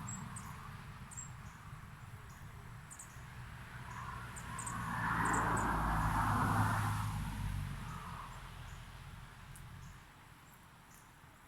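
Small birds give scattered short, high chirps. Midway a broad rushing sound swells up and fades away over several seconds, like something passing by.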